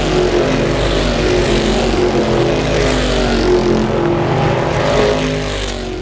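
Several stock car engines running hard as the cars race by, their overlapping notes shifting up and down in pitch. The sound eases a little near the end.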